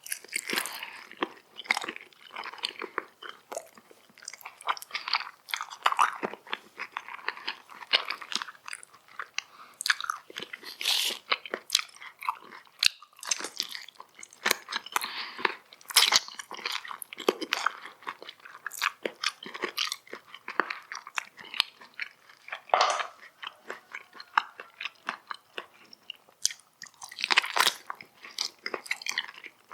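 Close-miked eating sounds: irregular crunchy bites and wet chewing, dense with sharp mouth clicks.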